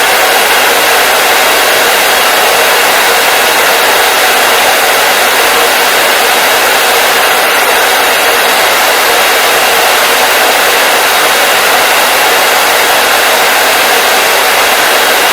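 Hair dryer blowing steadily, a constant even rush of air and motor noise with no changes.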